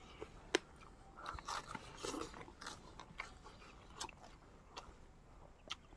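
Close-miked eating sounds: chewing with scattered crunches and sharp mouth clicks, the sharpest about half a second in.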